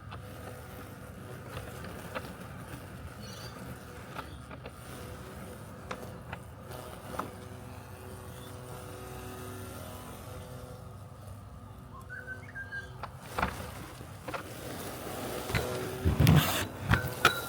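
Robotic lawn mower running with a steady low mechanical hum, with scattered small clicks. Near the end come a few louder, rough bursts.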